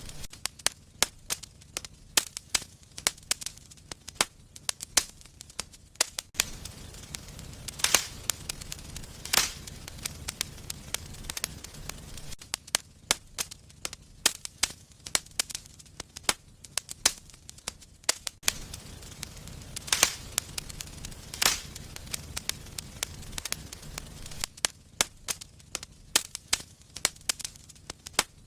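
Wood fire in a fireplace crackling, with frequent sharp snaps, a few louder pops, and a low rumble of flame that swells and fades.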